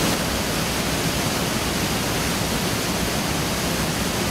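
Jagala Waterfall on the Jagala River pouring over its limestone ledge into the pool below: a steady, even rush of falling water.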